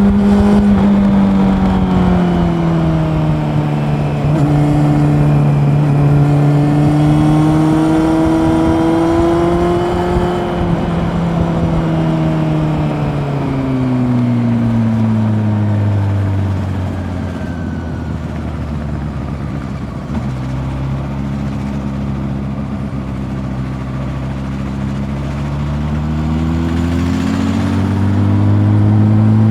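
Honda CB400 Super Four's inline-four engine under way. The revs ease down in the first few seconds and lift slightly about ten seconds in. They then fall lower and hold there through the middle, and climb again near the end. Road and wind noise run underneath.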